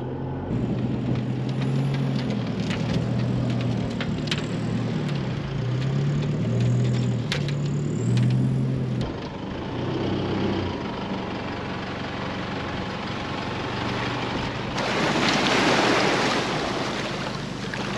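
A four-wheel drive's engine running on beach sand with a boat trailer hitched, its note rising and falling, and fading about ten seconds in. From about fifteen seconds in there is a steady rush of wind and shallow water as the aluminium boat is pushed off its trailer.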